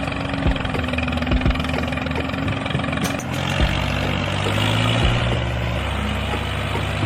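A small engine running steadily with repeated light clicks and knocks; its pitch changes about three seconds in and again near six seconds.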